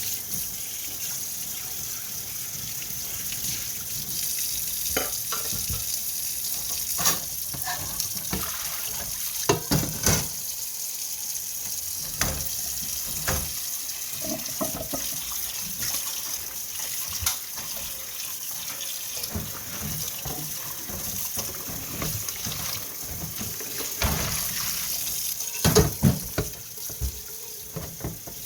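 Kitchen tap running into a sink, a steady hiss, with scattered knocks and clinks of dishes and utensils, the loudest a cluster about ten seconds in and another near the end.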